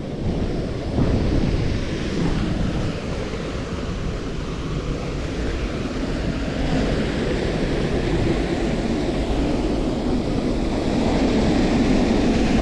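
Steady rushing of a mountain stream, with wind buffeting the microphone.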